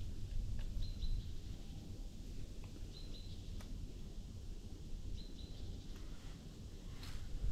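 A bird giving short, high chirps three times, about two seconds apart, over a steady low rumble, with a few faint clicks.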